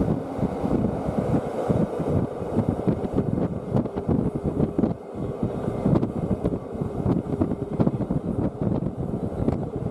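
Wind buffeting the microphone from the window of a moving Rhaetian Railway train, over the train's wheels running on the rails, with frequent irregular clicks and knocks.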